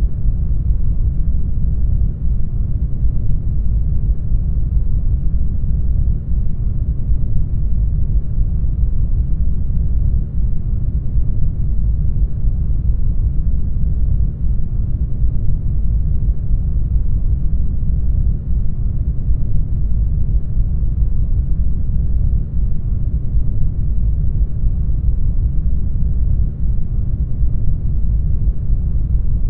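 Brown noise: a steady, deep rumbling hiss, strongest in the bass and thinning out toward the treble, with no changes.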